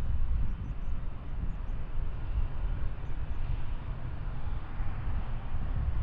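Jet airliner engines running, a steady low rumble.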